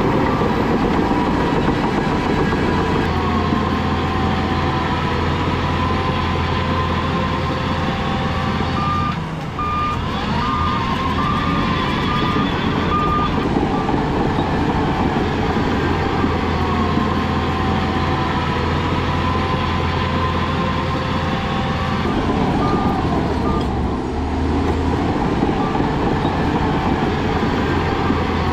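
Heavy diesel earthmoving machinery running steadily under load, its engine easing off briefly twice. A reversing alarm beeps about seven times a third of the way in and a couple of times more near the end.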